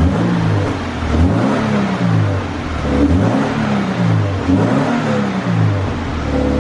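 Toyota GT86's flat-four boxer engine revved through a custom TIG-welded exhaust: about five quick blips, each rising and falling in pitch, then settling back to a steady idle near the end.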